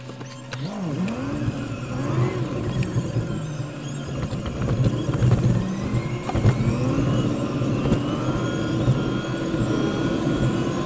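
Car engine heard from inside the cabin, pulling away from a standstill and accelerating. Its pitch climbs and falls back with each gear change, climbs once more and holds steady from about seven seconds in, over road noise.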